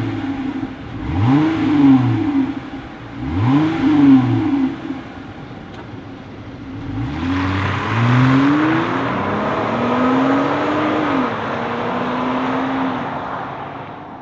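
Jeep Gladiator engine through a muffler-delete dual-exit axle-back exhaust, being revved. Two quick throttle blips rise and fall, the engine idles for a few seconds, then a longer rev climbs and is held for several seconds before easing back down.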